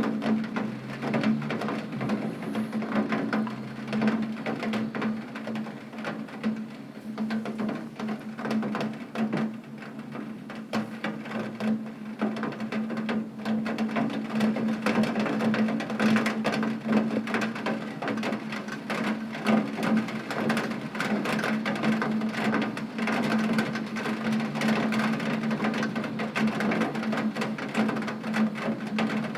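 Heavy rain on a window: a dense, irregular patter of drops striking the glass, with a steady low hum underneath.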